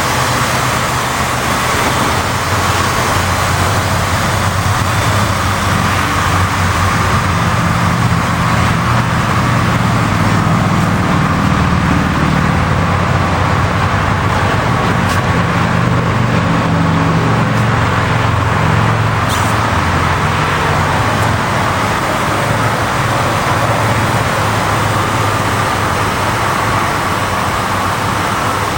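Kawasaki ZX-14 motorcycle engine running steadily, its low note rising somewhat around the middle and easing back toward the end.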